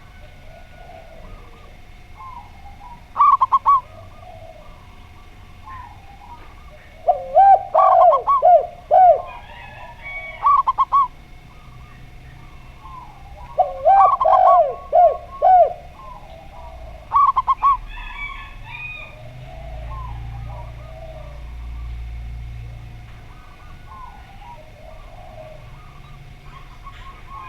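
Zebra dove and spotted dove cooing in turn: about five loud phrases of quick, rapidly repeated cooing notes. Softer bird chirps fill the gaps between them, and a low rumble comes in past the middle.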